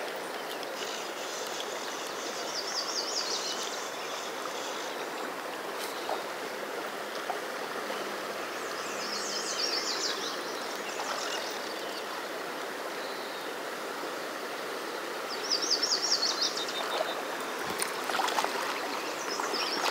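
Fast river current rushing steadily. A short high chattering trill breaks in three times.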